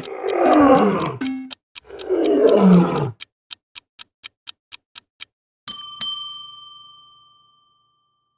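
Two loud big-cat roars, each falling in pitch, over a clock ticking about four times a second. The ticking runs on alone after the roars, then a bell dings twice and rings out.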